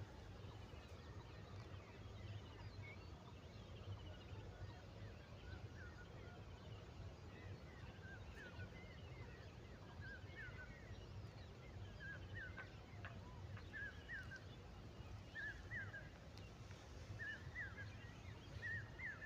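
Birds calling: a short hooked call repeats about once a second from about seven seconds in, over fainter high twittering and a steady low background noise.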